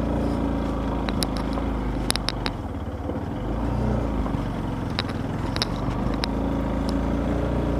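Motorcycle engine running while riding, its note dipping briefly about three seconds in and picking up again, with scattered sharp clicks.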